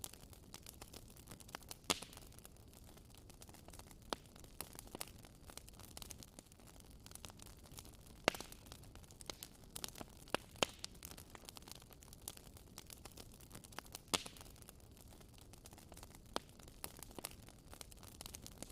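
Wood fire crackling in a fireplace: a faint steady hiss with frequent small crackles and a few sharper, louder pops.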